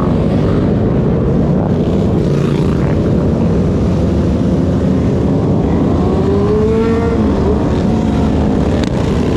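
Dirt bike engines running loudly on the street, with one engine's pitch rising and falling about six to seven seconds in.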